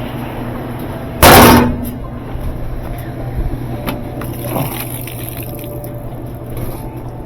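Whirlpool-style top-load washer running with a steady hum while spinning on its replacement spin basket. About a second in, a loud crash cuts in for about half a second, followed by a few faint clicks.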